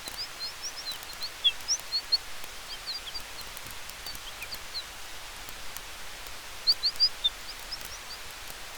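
Night-forest campfire ambience: a steady soft hiss with a few faint crackles, overlaid by many short high chirps that come in loose clusters, loudest about a second and a half in and again about seven seconds in.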